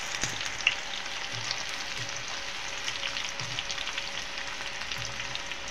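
Onion and whole dried red chillies frying in hot oil for a baghar (tempering): a steady sizzle with many small crackles.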